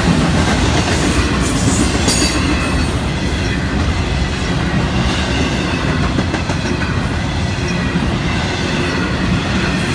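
Florida East Coast intermodal freight cars rolling past, a steady loud rumble of steel wheels on rail with clickety-clack, and a brief high screech of wheel on rail about two seconds in.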